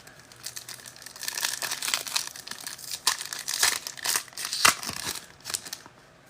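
Foil trading-card pack wrapper being torn open and crinkled by hand: irregular crackling and tearing rustles with sharp clicks, fading out near the end.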